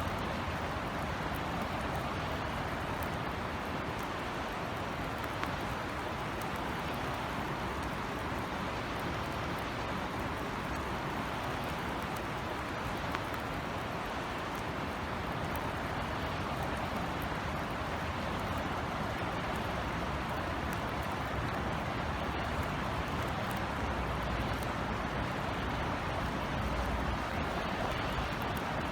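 Steady rain falling, with scattered faint drop ticks and a low hum of distant city traffic underneath.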